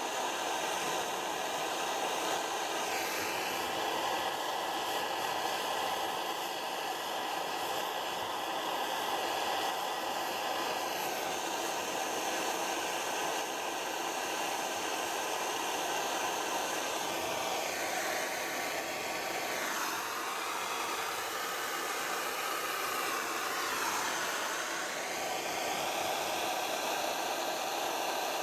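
Blow lamp flame burning with a steady rushing hiss while heating a silver-solder joint, its tone dipping briefly a few times.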